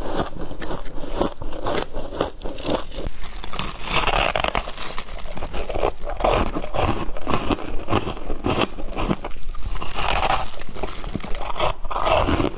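Frost being bitten and chewed close to the microphone: a dense, irregular run of crisp crunches and crackles.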